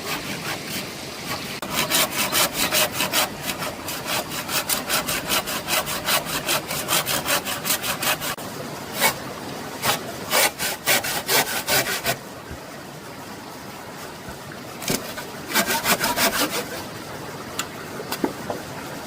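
Hand saw cutting through wood in quick, even back-and-forth strokes, stopping and starting again a few times.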